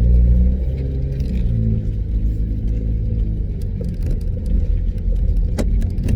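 BMW F30's N20 turbocharged 2.0-litre four-cylinder engine, fitted with an MST aftermarket intake and inlet, idling steadily as it warms up after a cold start. A single light click comes near the end.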